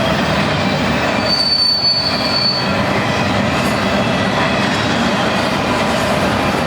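BNSF freight train cars rolling past with steady wheel and rail noise. A thin, high wheel squeal starts about a second in and stops shortly before the three-second mark.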